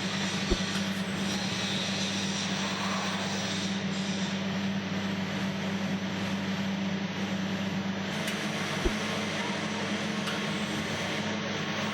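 Steady drone of industrial furnace-line machinery with a constant low hum, broken by two short knocks, one about half a second in and one near nine seconds.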